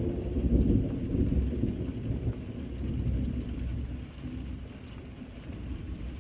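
A low rumble of thunder that swells right at the start, peaks within the first second and dies away over the next few seconds, over steady rainfall.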